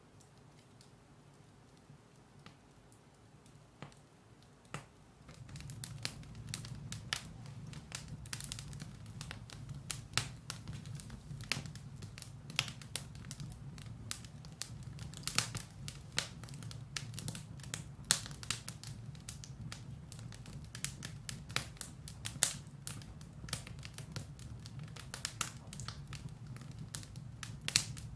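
Firewood burning in a fireplace, crackling with sharp pops. The pops are sparse at first; about five seconds in, a low steady rumble sets in and the crackles come thick and fast.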